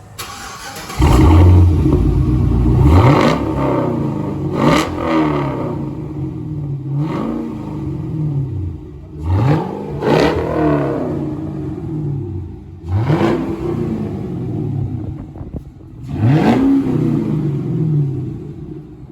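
Cadillac CTS-V's supercharged LSA V8 revved repeatedly through a muffler-deleted exhaust, a loud note that climbs and drops with each blip of the throttle, about six times.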